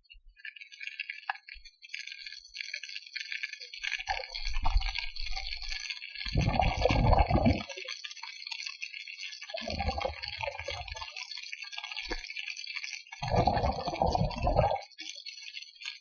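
Water close to the microphone while snorkelling: a steady crackling hiss with four short, louder bursts of sloshing water.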